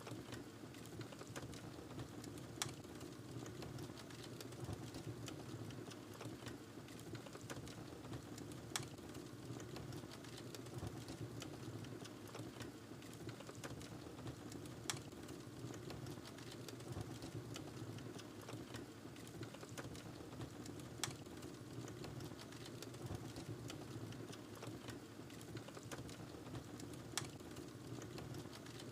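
Wood fire burning in a fireplace: a steady low rush of flames with constant fine crackling, and a sharper pop about every six seconds.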